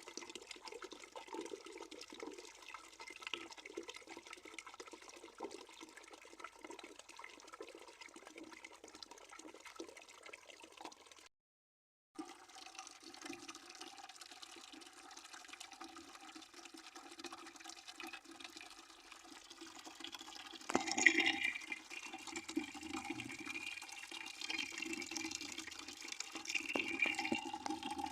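Water running and splashing steadily into a bucket. It drops out completely for under a second about 11 s in, then about 21 s in the splashing turns louder and brighter.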